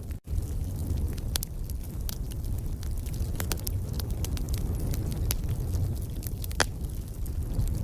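Wood fire crackling, with irregular sharp pops and snaps over a steady low rumble, and one louder pop near the end. The sound cuts out for an instant just after it begins.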